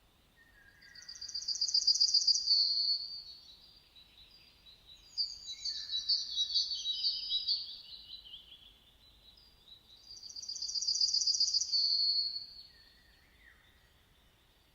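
Birdsong: three loud, high-pitched phrases, the first and last alike, made of fast repeated chirping notes. Fainter, lower whistled notes fall between them.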